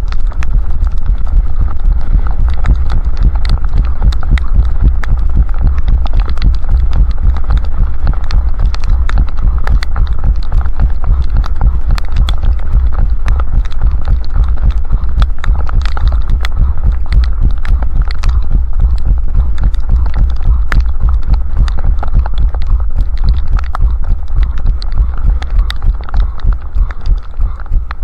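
A runner's footfalls jolting a head-mounted camera: steady thuds about three a second over a heavy rumble of wind on the microphone.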